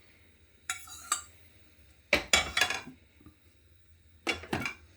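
Metal cooking utensils clinking and clattering against a pot and dishes in three short bursts: about a second in, around two seconds in, and near the end.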